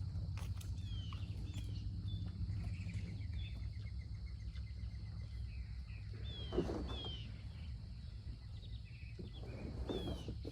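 Songbirds calling with repeated short, falling chirps over a steady low outdoor rumble, with scattered small knocks and one brief louder noise about two-thirds of the way through.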